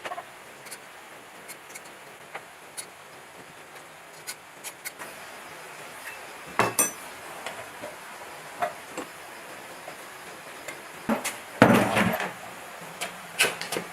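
Tools and metal parts clinking and knocking during motor repair work, scattered light taps with a louder strike about halfway through and a cluster of knocks near the end.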